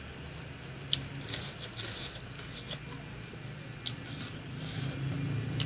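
Close-up eating sounds: chewing dry-fried frog, with a few sharp crunching clicks. Near the end comes a short scrape as fingers work rice across a steel plate, all over a steady low hum.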